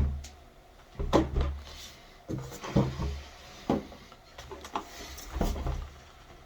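Hard plastic parts of a cordless wet-dry floor washer being handled, making about five separate knocks and bumps.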